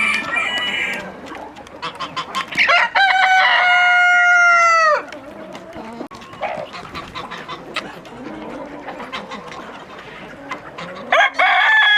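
Rooster crowing: one long crow from about three seconds in to five, dropping off at the end, and another starting just before the end. Hens cluck in between.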